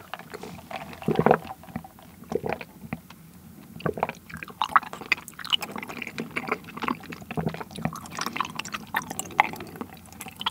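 Close-up mouth sounds of bubble tea: a sip through a wide straw with a louder slurp about a second in, then chewing of tapioca pearls, many small irregular clicks.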